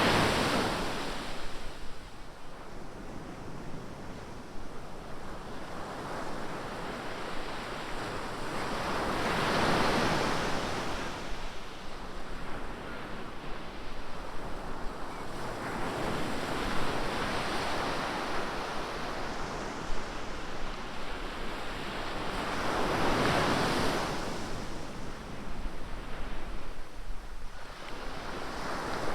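Ocean waves breaking and washing up a sandy beach, the surf swelling and falling about every six to ten seconds, with some wind on the microphone.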